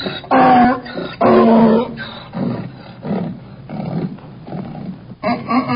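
Donkey braying: two loud, drawn-out pitched calls, then a run of shorter, quieter pulses about two a second, and another loud bray beginning near the end.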